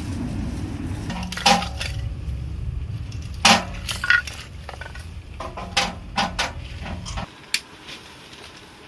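Dishes and cookware being handled: a scattering of clinks and knocks over a steady low rumble that stops abruptly about seven seconds in.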